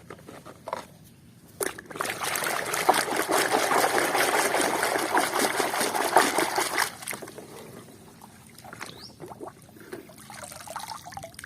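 Water pouring and splashing over a muddy toy vehicle as it is rinsed clean. The water runs steadily for about five seconds from near the start, then gives way to fainter dribbling and small knocks of the toy being handled.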